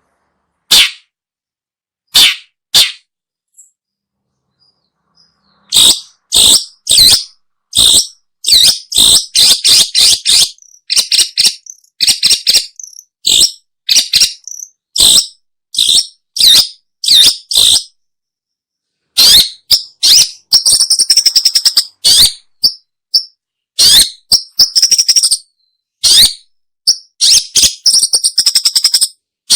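Long-tailed shrike (pentet/cendet) calling: runs of short, sharp, high-pitched notes, with a fast rattling stretch about two-thirds of the way through. The runs pause twice for a couple of seconds, early on and just past the middle.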